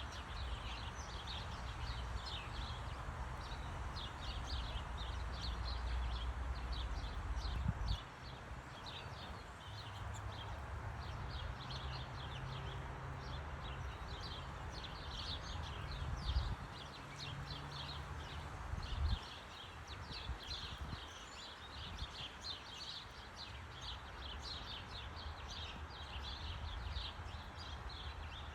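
Small birds chirping in quick, overlapping calls throughout, over a low rumble that cuts off suddenly about eight seconds in and again around nineteen seconds.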